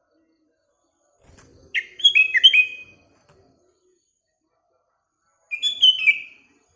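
Sooty-headed bulbul (kutilang) singing: two short phrases of quick, down-slurred whistled notes, one about two seconds in and another near the end.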